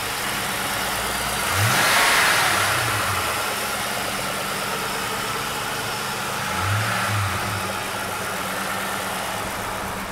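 The 2004 Ford Mustang Mach 1's 4.6 L V8 running, revved briefly twice: once about two seconds in and again near seven seconds.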